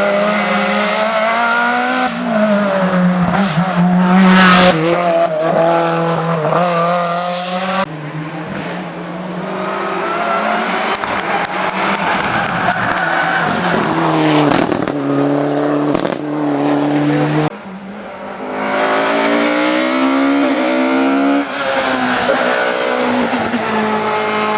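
Hillclimb race car engines revving hard, rising and falling in pitch through gear changes. Tyres squeal at times. The engine sound changes abruptly about eight seconds in and again near seventeen seconds.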